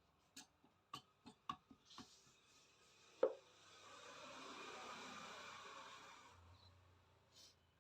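Faint clicks and knocks of metal engine parts and tools being handled during motorcycle engine assembly, with one louder knock about three seconds in. A soft rushing noise then swells and fades over about three seconds.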